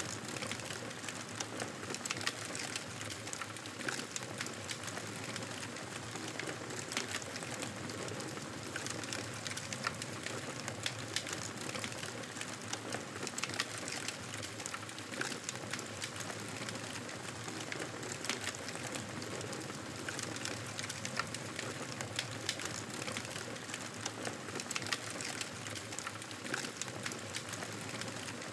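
Campfire burning steadily: a soft rushing hiss with frequent small irregular crackles and pops of burning wood.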